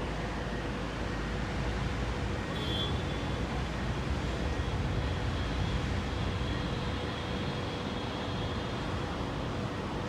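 Steady rushing noise of heavy rain, with a low rumble underneath and a faint thin whine joining about three seconds in.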